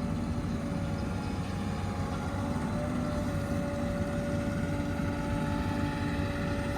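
Diesel engine of heavy earthmoving machinery running steadily, with a held whine that rises slightly in pitch about three seconds in.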